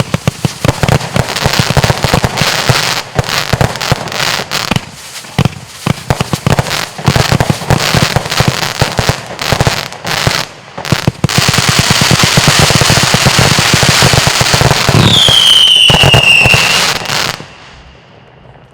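Lesli 'Tribute To Tradition' firework going off: a fast, irregular run of sharp bangs and crackles, turning about eleven seconds in into a dense continuous crackle. Near the end a high whistle falls in pitch over the crackle, and then it all stops suddenly and fades.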